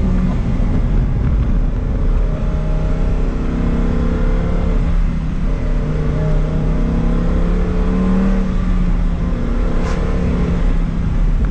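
Lamborghini Huracan STO's naturally aspirated 5.2-litre V10 running under moderate, varying throttle while driving, its note swelling and easing gently, highest about eight seconds in, over steady road noise.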